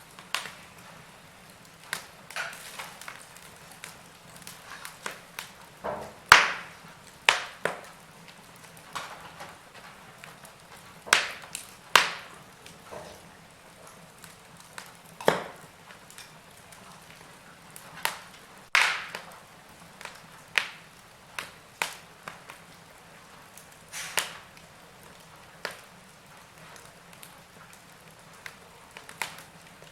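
Wood fire crackling in a fireplace, with irregular sharp pops and snaps of varying loudness; the strongest pops come about six, twelve, fifteen and nineteen seconds in.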